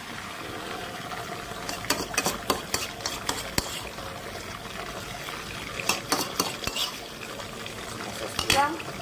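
Chopped garlic and oyster sauce sizzling in hot oil in a wok, with a spoon clinking and scraping against the wok in two clusters, a couple of seconds in and again around six seconds, and one louder scrape near the end.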